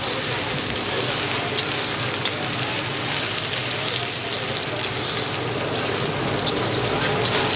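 Onions and ginger-garlic paste sizzling in hot mustard oil in an iron kadhai as they fry, with scattered small pops and crackles while they are stirred with a spatula.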